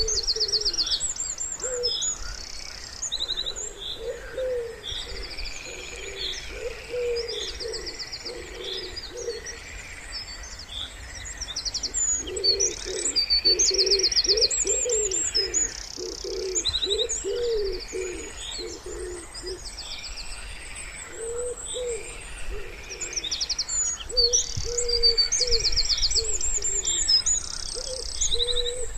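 Wood pigeon cooing in repeated low phrases, several times, loudest about halfway through, while small songbirds sing high chirps and rapid trills throughout.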